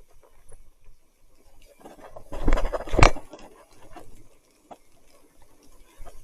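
Mountain bike riding over a rough, wet trail: scattered small clicks and rattles, then a loud rough rush of noise about two seconds in that ends in a sharp knock near three seconds.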